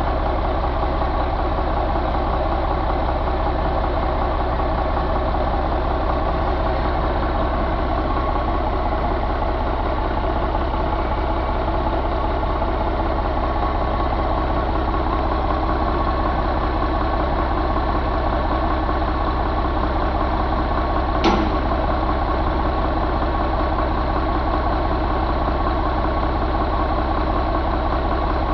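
Ford 6.6 engine idling steadily and evenly. A single sharp click is heard about three-quarters of the way through.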